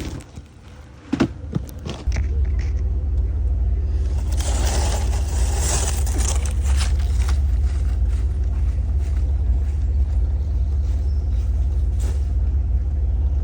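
A couple of sharp knocks, then from about two seconds in a steady low rumble of a car, heard from inside the cabin, holding to the end, with a stretch of hiss in the middle.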